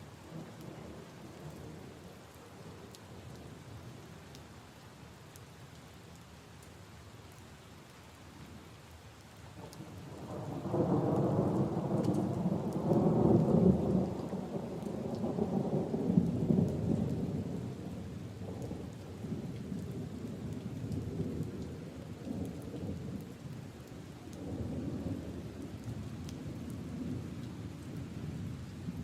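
Steady rain falling on leaves and puddles, with scattered single drops. About ten seconds in, a long roll of thunder rumbles in, loudest for several seconds, then slowly dies away with a smaller swell later on.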